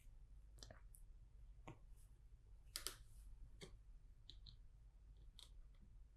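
Faint, scattered clicks of small plastic LEGO pieces being handled and pressed into place, about six in all at uneven intervals.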